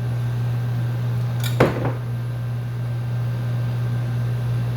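Steady low hum of a running electrical appliance, with one brief knock about a second and a half in.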